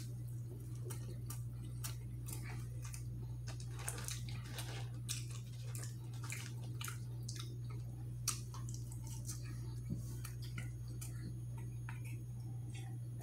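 Close-miked chewing of a bite of Italian beef sandwich: irregular wet clicks and smacks from the mouth, over a steady low hum.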